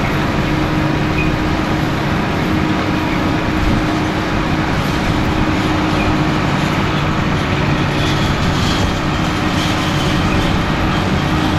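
Large farm tractor engine running steadily under load while pulling a drain-tile plow, a constant drone with a few held tones.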